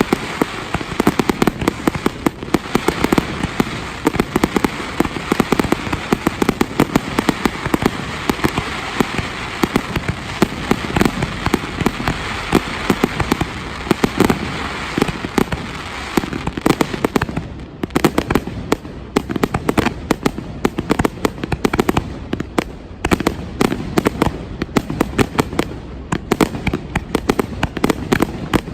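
Fireworks going off in a dense, rapid barrage of bangs and crackling. Partway through, the steady hiss under the bangs thins out, and the bangs come more separately.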